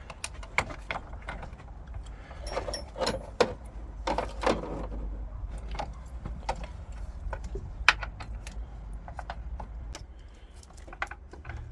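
Metal hand tools clinking and tapping as a socket and a 13 mm spanner work a nut onto a car battery clamp bolt: scattered, irregular sharp clicks and knocks.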